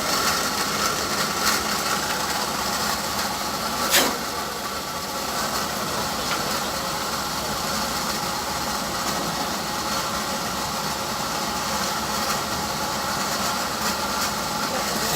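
Steady running of an engine or motor, with a single sharp metallic-sounding knock about four seconds in.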